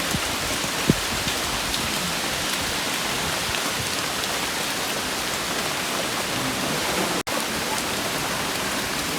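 Steady rain falling, an even hiss, with a faint knock about a second in and the sound cutting out for an instant about seven seconds in.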